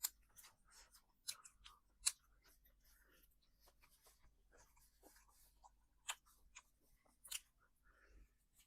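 Quiet eating sounds: a person chewing, with sharp crisp crunches and clicks, the loudest just after the start, about two seconds in, and again around six and seven seconds in.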